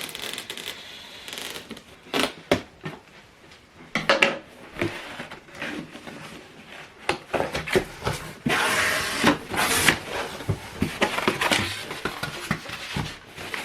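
Cardboard box and packaging being opened and handled: scattered knocks, clicks and taps, with a longer stretch of rubbing and sliding about eight to ten seconds in.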